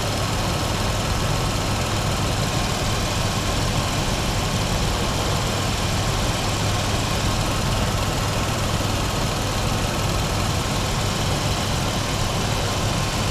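Ford 4.0-litre SOHC V6 idling steadily, heard from the open engine bay.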